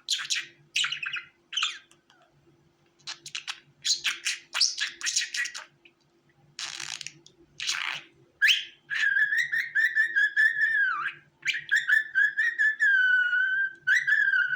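Budgerigar chirping and chattering in short bursts, then, from a little past halfway, a long wavering whistle.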